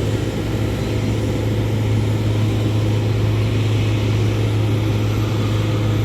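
Steady drone of a running engine with a strong, unchanging low hum.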